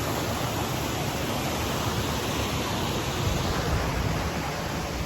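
Steady rush of water from a small waterfall and the stream cascading down over rocks.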